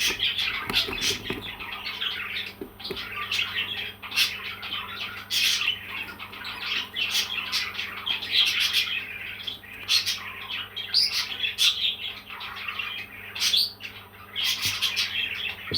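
Parrot chirping and squawking in a continuous run of short, sharp calls.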